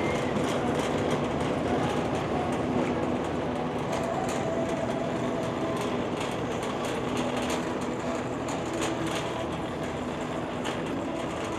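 Shopping cart rattling steadily as it is pushed across a hard store floor, over the hum of a busy store.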